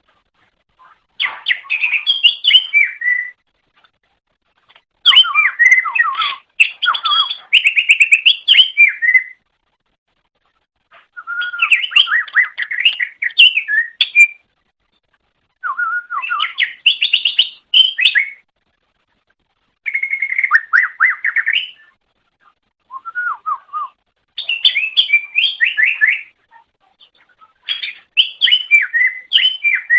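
Green leafbird (cucak ijo) singing: repeated phrases of fast, varied warbling and whistled notes, each phrase a few seconds long, separated by short silences.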